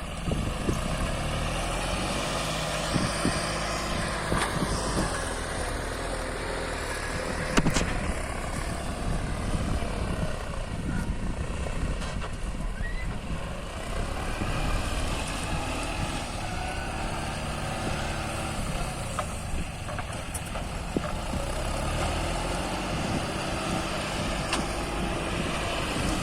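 Tractor engine running steadily, with one sharp knock about seven seconds in.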